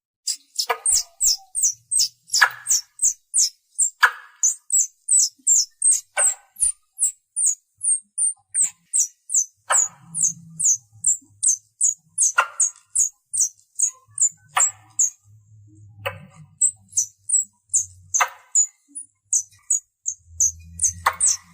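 Squirrel call used to call or lure other squirrels: a rapid series of short, high-pitched chirps, about three a second, broken every couple of seconds by a louder, lower sharp chip. The chirping eases briefly just past the middle.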